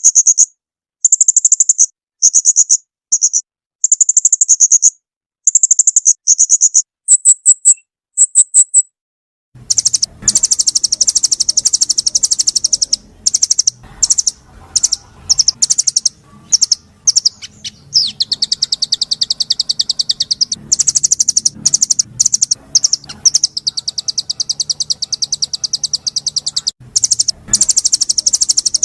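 Small songbird giving rapid, harsh, high-pitched trills in short bursts separated by silences. About ten seconds in, a different recording with a faint background hum cuts in, and the trilling runs almost without a break, with a brief rising whistle near the middle.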